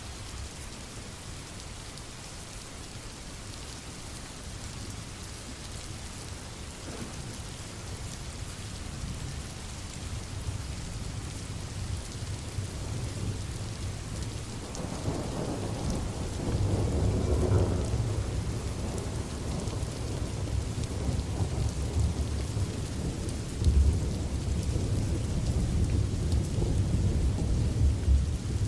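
Steady rain falling. About halfway through, a low rumble of thunder rolls in and keeps rolling, swelling again near the end.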